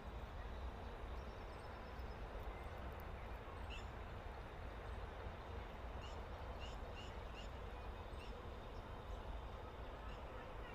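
A few short bird calls, one about four seconds in and a quick series of four or five a couple of seconds later, over a steady background hiss and low rumble.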